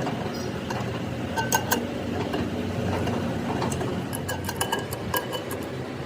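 Metal workshop noise: a steady machine running, with scattered light metallic clinks of tools or steel parts knocking together.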